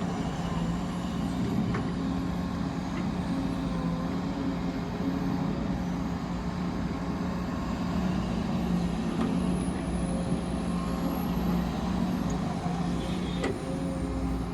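Heavy mining machinery's engine running steadily at a constant pitch, with a short click near the end.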